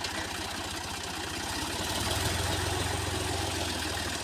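Diesel tractor engine idling with an even low throb, growing a little louder about two seconds in.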